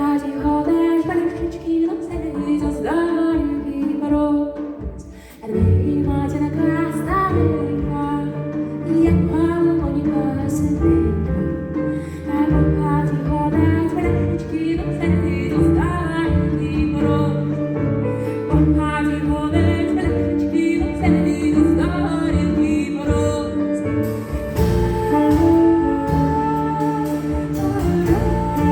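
Sung folk song with instrumental accompaniment. A fuller, deeper accompaniment comes in about five and a half seconds in.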